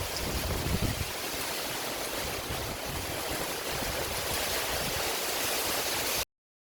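Heavy rain falling steadily, a dense even hiss. It cuts off suddenly near the end.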